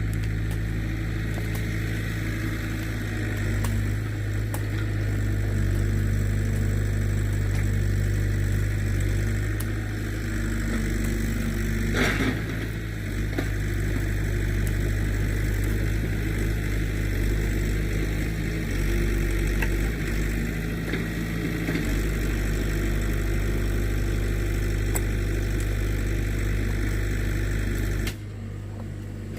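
An engine running steadily at a low, even pitch, with one short sharp sound about twelve seconds in; the engine sound drops off just before the end.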